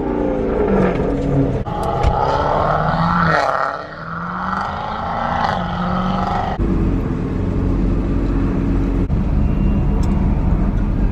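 Car engines revving and a car passing by, the engine pitch rising and falling. About two-thirds of the way through the sound changes abruptly to a steady low engine drone.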